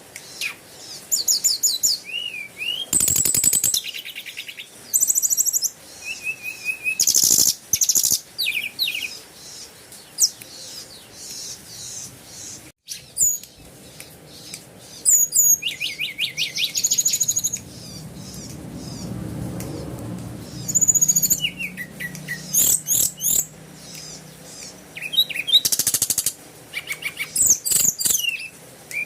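Small birds chirping and singing: rapid repeated chirps, short trills and buzzy notes, often overlapping. A low hum swells and fades around the middle.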